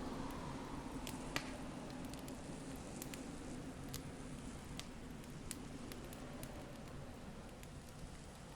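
Campfire crackling, with scattered sharp pops over a steady low rush.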